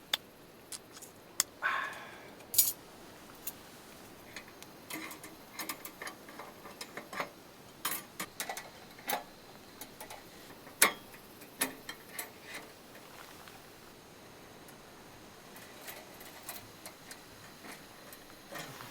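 Camp cooking sounds: irregular sharp clicks and light clinks, a few with a short metallic ring.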